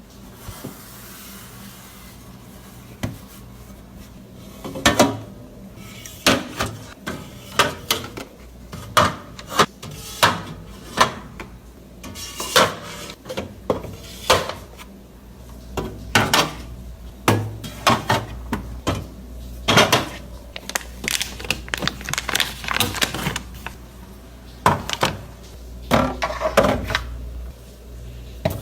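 Dishes, containers and other household items being handled and set down during kitchen tidying. They knock and clack irregularly, about one or two times a second, some strikes sharp and some rattling briefly, over a low steady hum.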